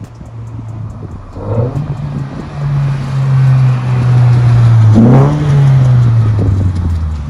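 The 1974 Datsun 620 pickup's swapped-in Toyota BEAMS four-cylinder engine revving as the truck accelerates, getting louder, with a quick rise in pitch about five seconds in, then dropping in pitch and fading near the end.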